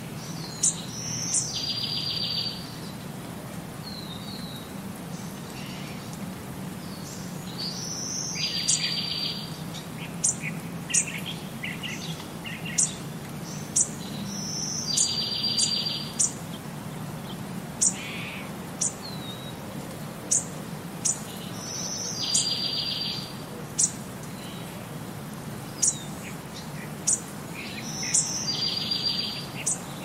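Songbirds chirping. One bird repeats a short song ending in a buzzy trill about every seven seconds, with frequent short, sharp, high chirps between, over a steady background hiss.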